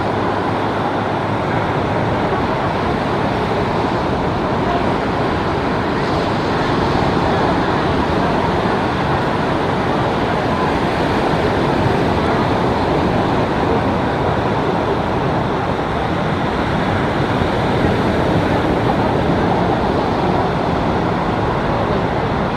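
Steady rushing of ocean surf mixed with wind noise on the microphone.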